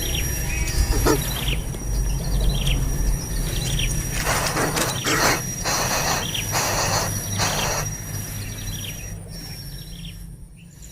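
Short bird chirps, with a run of harsher, rasping calls in the middle, over a steady low rumble and a thin, steady high-pitched tone.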